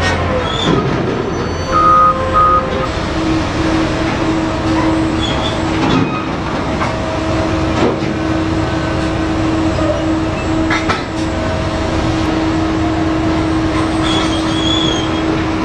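Heavy truck running, with two short beeps about two seconds in and a steady whine from about three seconds on.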